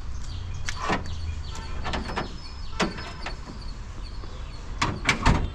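Several sharp clicks and knocks over a low steady rumble, with a quick run of three near the end.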